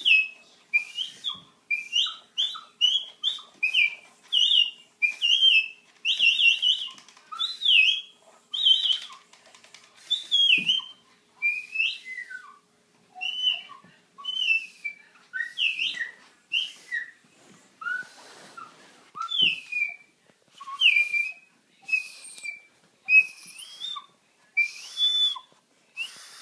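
A person blowing a long series of short, high whistled notes, each sliding up or down and carrying a breathy hiss, as a try at a loon call.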